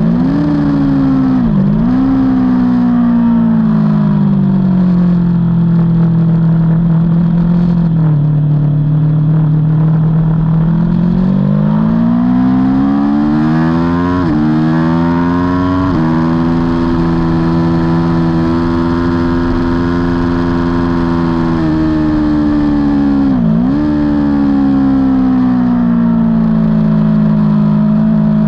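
Aprilia Tuono V4's V4 engine heard on board at racing speed. The revs dip with quick throttle blips at the start, then climb steadily and drop sharply twice, as on upshifts. The engine holds high revs for several seconds, then dips again with blips near the end, as on a downshift.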